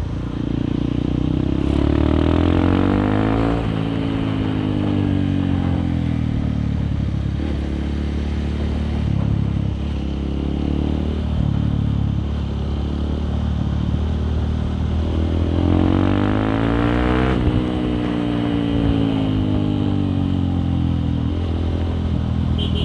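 Honda CRF150L's single-cylinder four-stroke engine running through a Nofifumi Torc aftermarket exhaust while riding. The revs climb for the first few seconds and then drop away, hold fairly steady, then climb and drop again about two-thirds of the way through.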